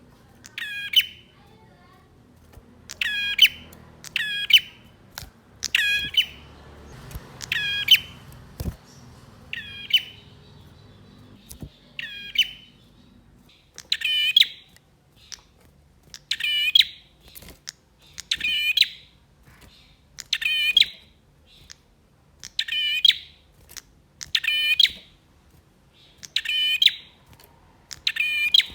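Male prinia (prenjak) calling vigorously: short, loud, rapid-note phrases repeated about every two seconds.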